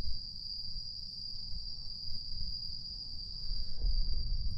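Night insects trilling continuously at one steady high pitch, over a low rumble.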